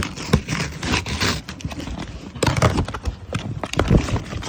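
Irregular knocks and thumps mixed with short bursts of rustling noise.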